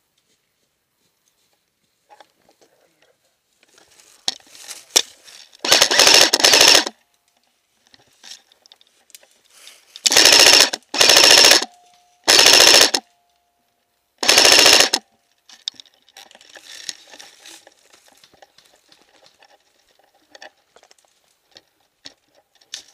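Airsoft rifle firing four full-auto bursts, each about a second long, as a rapid, even string of shots. Faint rustling and crunching are heard between the bursts.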